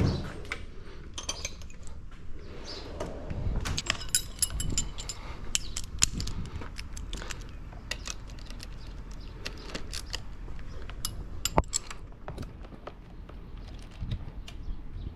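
Metal hand tools clinking and rattling: a 6 mm socket and extension being picked out and handled, with a run of sharp clinks through the middle.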